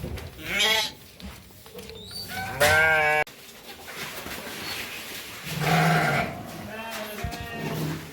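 Sheep bleating several times with wavering, quavering calls. The loudest bleat comes about two and a half seconds in and cuts off suddenly.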